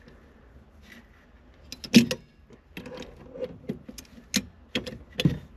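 Sharp metallic clicks and knocks, uneven, the loudest about two seconds in: the accelerator pedal and its retaining clip being worked loose by hand.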